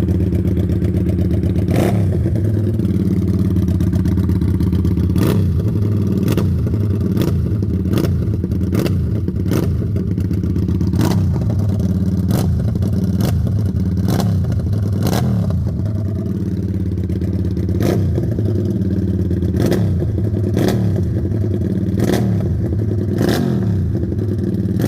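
QJ Motor SRV 300 motorcycle engine and exhaust running steadily near idle. Sharp cracks come every second or so, some followed by a brief falling pitch.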